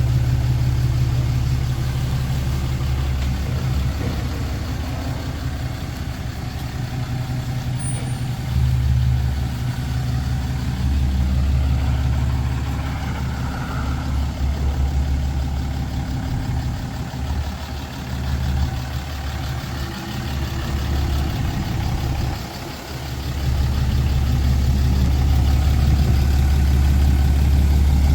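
Pickup truck engine running steadily with a deep drone that eases off briefly a few times.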